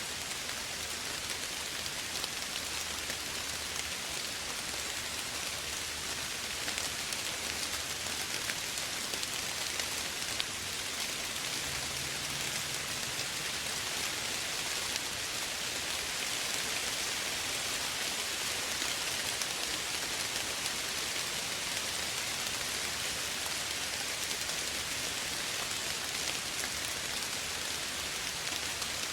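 Soft rain falling steadily: a dense, even patter of drops on surfaces, with no let-up.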